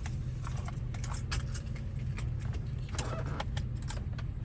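Metal keys jangling and clicking as a key blank is handled, over a steady low hum from something running.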